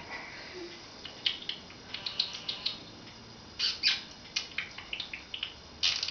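Pet budgerigar making a string of short, scratchy chirps and clicks in irregular clusters.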